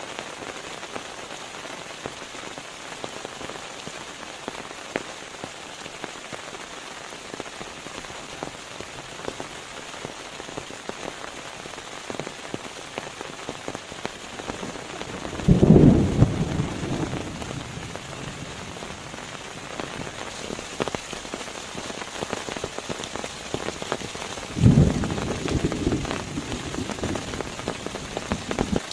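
Steady rain with many individual drops ticking, and two sudden low thunderclaps, one about halfway through and one near the end, each rumbling away over a second or two.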